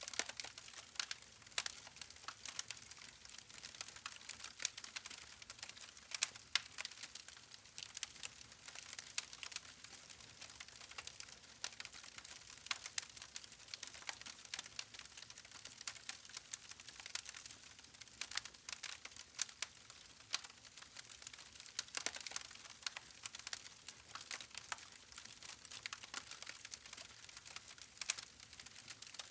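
Campfire of burning logs crackling: a steady scatter of sharp pops and snaps over a soft hiss, with a few louder snaps standing out.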